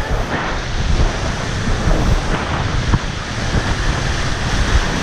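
River rapids rushing and splashing around a raft, with wind buffeting the microphone.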